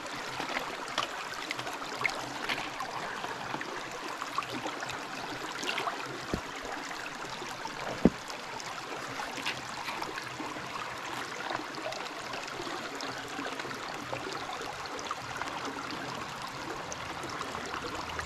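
Creek water running and trickling steadily, with scattered small clicks and one sharper knock about eight seconds in.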